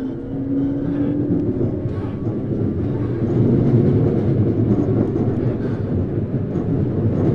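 Tokyu 9000 series electric train running, heard from inside a motor car. The Hitachi GTO-VVVF inverter's tone is heard for the first second and a half. After that the wheel and rail rumble takes over and grows louder.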